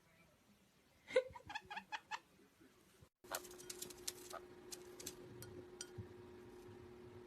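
A pet parrot gives a quick run of about seven short, laughing-like calls. After a cut, a steady hum with scattered small clicks follows.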